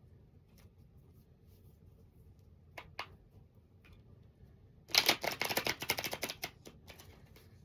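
Tarot cards being shuffled: a couple of sharp card snaps about three seconds in, then a rapid riffle of cards about five seconds in that lasts around a second and a half.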